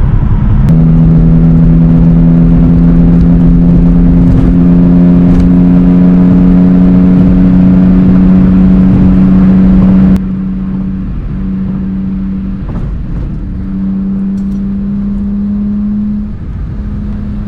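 Car engine and exhaust droning steadily at highway cruising speed, heard from inside the cabin. About ten seconds in, the sound cuts abruptly to a quieter drone that drops out briefly a few times.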